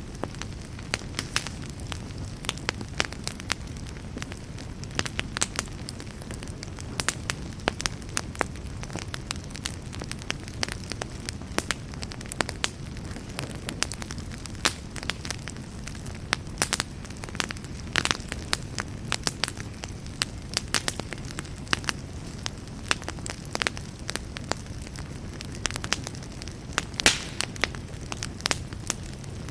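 Campfire burning: a steady low rumble of flames with frequent irregular crackles and pops of burning wood.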